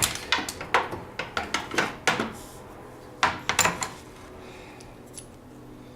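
Metal clinking and clanking of a steel bolt, nut and hand tools being handled during snowmobile suspension work. There is a quick run of clanks through the first two seconds and another short cluster a little past halfway.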